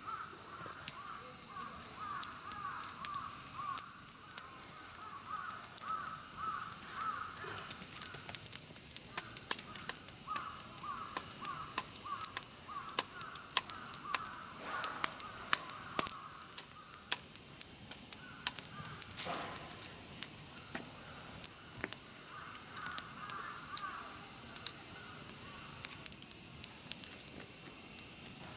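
A steady, high-pitched chorus of insects, with a repeated chirping call that comes in three runs of several seconds each. Scattered sharp crackles from the campfire sound throughout.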